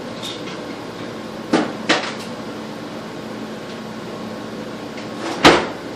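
A plastic bottle cap clicking and knocking on a hard floor as a cat chases and bats it: two light clicks about a second and a half in, then a single louder knock near the end.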